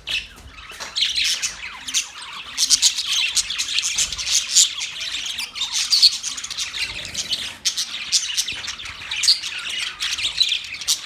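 Budgerigars chirping and squawking in a dense, continuous chatter of short overlapping calls.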